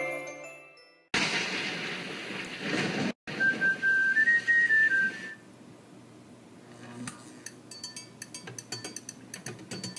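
Cartoon soundtrack effects. Bell-like music fades out, then a loud rushing noise runs for about two seconds. A short whistled phrase of a few notes follows, and near the end quiet rapid clicking builds up.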